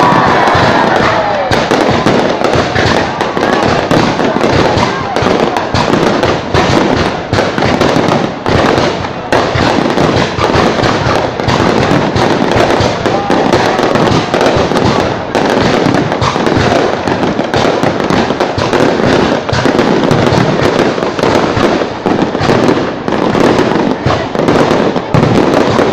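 Fireworks going off in a dense, rapid string of bangs and crackles, with people's voices underneath.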